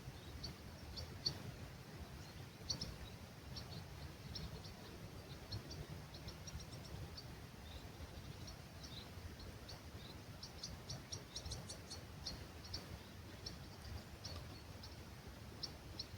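Small songbirds chirping at dawn: many short, high chirps in quick series, busiest a little past the middle, over a low steady rumble of breeze.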